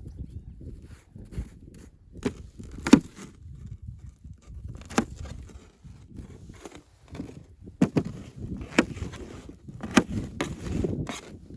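A series of irregular sharp knocks and thuds, about eight in all, the loudest near the start and near the end, over a low rustling handling noise.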